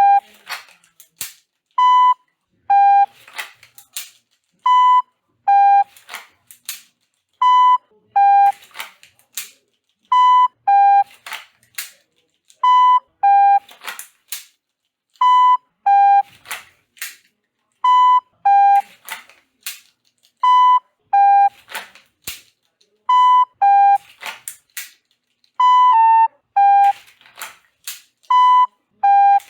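Electronic shot-timer beeps and dry-fire pistol clicks on repeat: a short higher beep, a slightly lower beep a moment later, then a quick string of sharp clicks from the trigger and slide being worked, the cycle coming round about every two and a half seconds.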